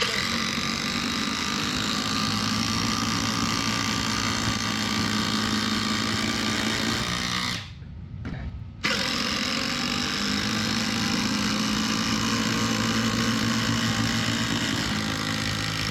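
Two cordless impact drivers, a Makita brushless and a DeWalt Max, hammering together as they race to drive fasteners. The rattle stops for about a second just before halfway, then starts again and runs on.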